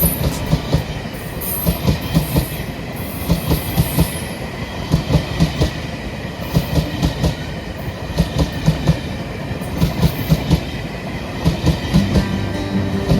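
Railway cars rolling past, their wheels clicking in quick groups over the rail joints every second or two over a steady rumble, with brief high wheel squeals in the first few seconds.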